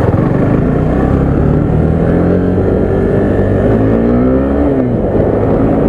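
Suzuki Gixxer SF 250's single-cylinder engine pulling hard under acceleration in first gear, its pitch climbing steadily. About four and a half seconds in, the pitch falls away.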